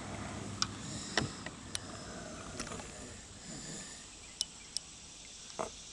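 Scattered light clicks and taps over a quiet background: a small bluegill being handled and unhooked from a plastic cricket lure aboard a kayak.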